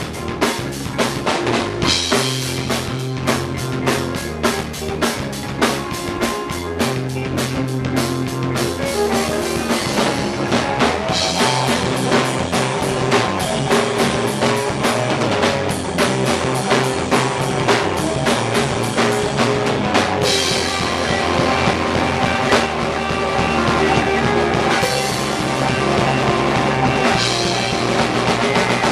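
Rock band playing: drum kit keeping a steady driving beat under bass and electric guitar.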